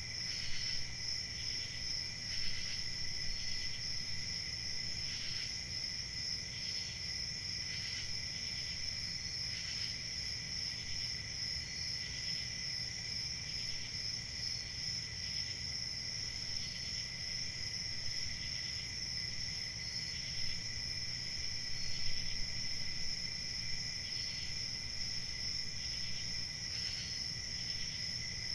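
Crickets chirping in a steady, continuous chorus, with a constant high trill and fainter chirps pulsing through it every second or two.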